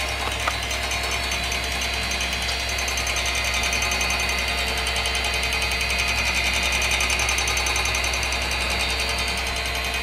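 Cooler Master RP-500-PCAR ATX power supply running with a steady, rapid rattling buzz over a high whine and a low hum. This is the abnormal noise it makes from boot and throughout use, which the owner takes for a fault in the unit.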